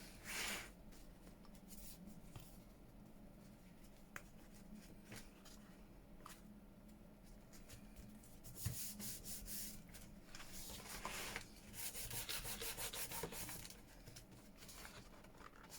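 Hands rubbing and handling paper at a craft table, faint, with a few light taps and rustles; about nine seconds in a run of quick rubbing strokes starts and goes on for several seconds.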